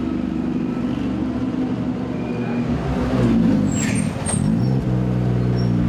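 Race car engine running in the pit lane: its note slides down and settles into a steady tone about four and a half seconds in, with two short high hisses just before.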